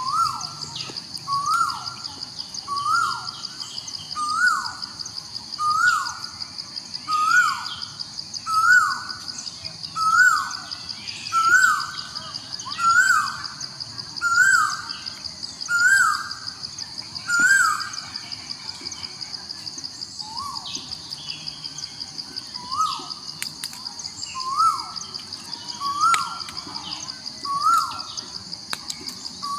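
A bird repeating a short falling call about every second and a half, with a brief break about two-thirds of the way through, over a steady high-pitched buzzing drone.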